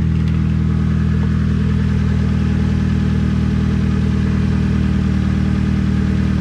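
2000 Mazda Miata NB's four-cylinder engine idling steadily through a newly fitted ISR stainless cat-delete exhaust. The engine is not yet warmed up, and the new exhaust is being checked for leaks.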